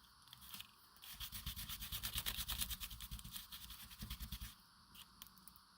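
Fast, faint, repeated rubbing strokes on paper: ink or paint being worked through a stencil with an applicator. They start about a second in and stop at about four and a half seconds.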